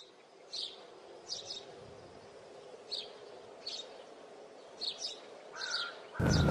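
Birds chirping: short high calls about once a second over a faint, steady outdoor hum. Near the end, loud music cuts in.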